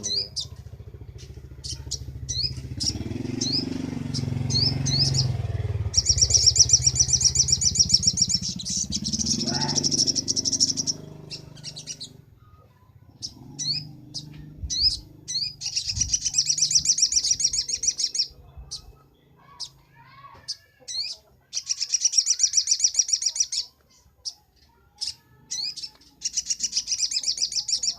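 Sogok ontong (little spiderhunter) singing: four bursts of rapid, high-pitched trilled song, each about two seconds long, with short sharp chirps between them. A low rumble runs under the first half.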